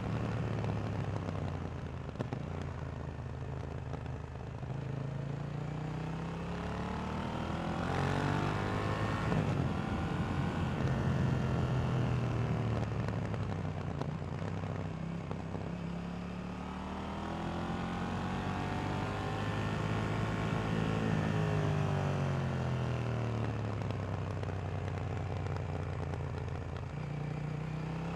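2018 KTM 790 Duke's parallel-twin engine through its stock exhaust, ridden on the road: the revs climb smoothly, fall away, climb again and drop back as the rider accelerates and eases off, over a steady rushing noise.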